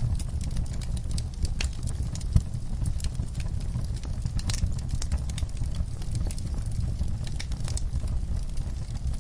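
Wood fire burning in a fireplace: a steady low rumble with frequent irregular crackles and sharp pops of burning logs.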